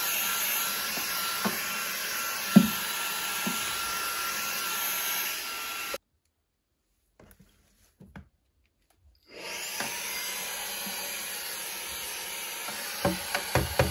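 Vacuum cleaner running with a steady whine and a few knocks as it bumps against things. It cuts out about six seconds in, leaving near silence with a few clicks for about three seconds, then starts up again, with a quick run of knocks near the end.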